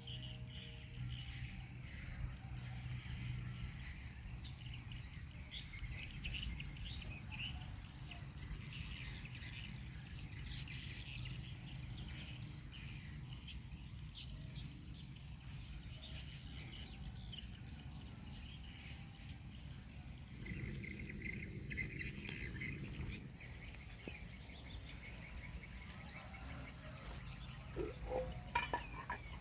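Countryside ambience: birds chirping and insects calling over a steady low rumble. A few sharp knocks come near the end.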